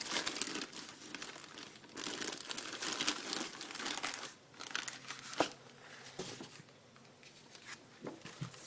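Crinkling and rustling of something being handled, busiest in the first half, with a single sharp click about five and a half seconds in.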